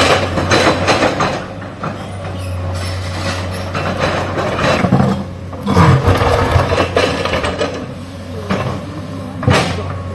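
Excavator digging: its diesel engine runs with a steady drone under repeated bouts of metallic clanking and scraping as the machine works soil and rock, with a sharp clank near the end.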